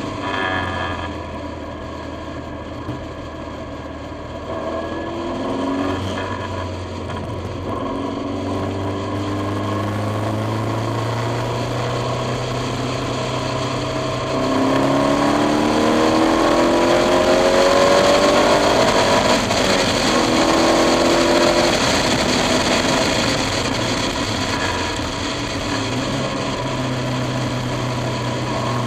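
KTM X-Bow's turbocharged four-cylinder engine accelerating hard on track, its revs climbing and dropping back at each upshift, several times in a row. It gets louder about halfway through.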